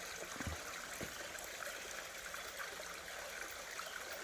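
Shallow creek water running and trickling over rocks, a steady, fairly quiet wash, with two faint low knocks about half a second and a second in.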